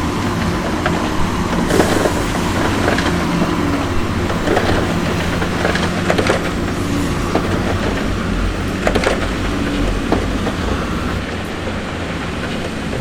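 Diesel engine of heavy earthmoving equipment running steadily, with repeated clattering and knocking of stone fill being moved.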